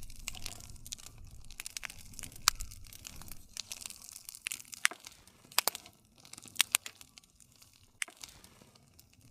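Campfire burning: wood crackling with sharp, irregular pops over a low rumble, the pops thinning out after about six seconds.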